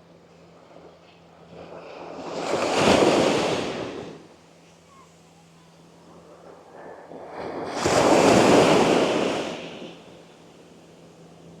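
Gentle Andaman Sea waves breaking and washing up the sand: two swells of surf about five seconds apart, each rising and falling away over a couple of seconds, with quiet lulls between.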